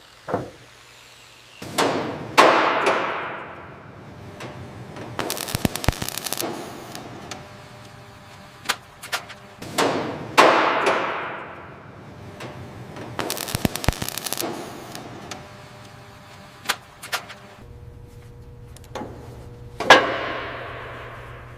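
Three heavy metallic clangs, each ringing out with a long echoing decay, separated by two bursts of rapid sharp clattering, over a low steady hum.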